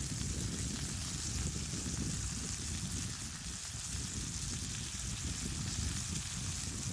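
Food sizzling in a pan over a campfire as a steady hiss, with gusty wind rumbling on the microphone underneath.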